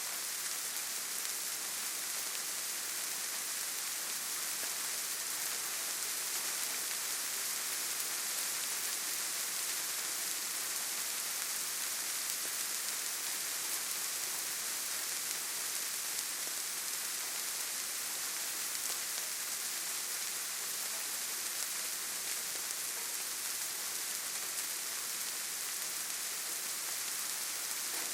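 Steady rain falling on leaves and forest ground: an even, unbroken hiss.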